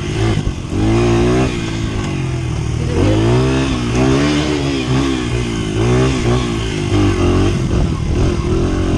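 Dirt bike engine revving up and easing off in surges, about three times, as the throttle is opened and closed.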